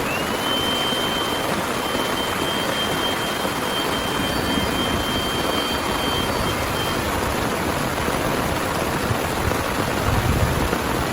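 Heavy rain falling steadily. A thin, steady high tone sounds over it for the first seven seconds or so. A brief low rumble comes near the end.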